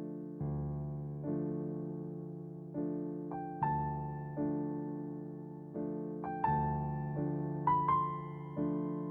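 Background music on electric piano: slow, sustained chords struck roughly every second and a half, each fading away, with a few higher melody notes entering in the second half.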